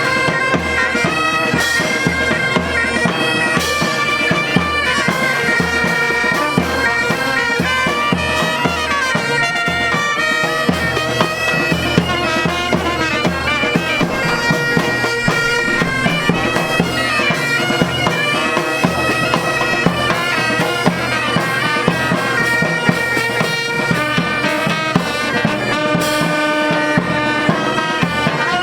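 Bagpipe band playing a tune over the pipes' steady drone, with drum beats throughout.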